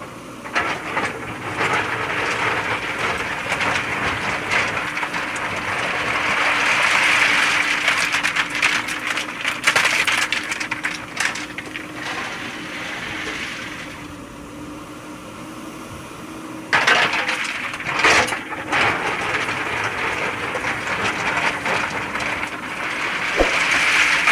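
JCB 3DX backhoe loader at work: the engine runs steadily under a rushing noise that swells and fades, with crackling and clattering of soil and stones. A pair of sharp knocks comes about two-thirds of the way through.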